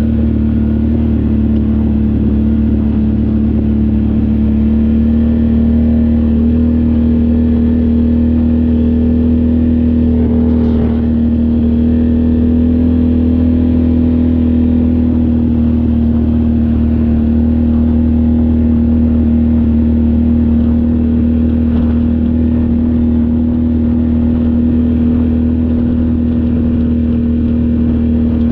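ATV engine running at a steady speed, a constant loud drone that holds one pitch throughout.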